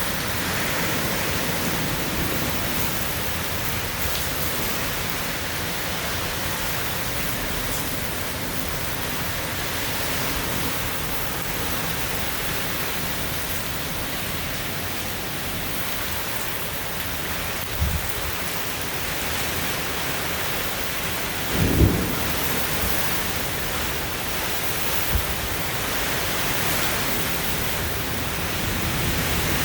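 Heavy rain and strong wind in a storm, a steady dense rush. Three short low thumps break through about two-thirds of the way in, the middle one the loudest.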